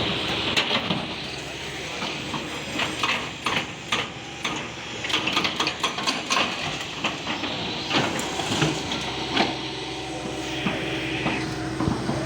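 Demolition work: a heavy machine's engine running under irregular knocks, clanks and the clatter of breaking debris.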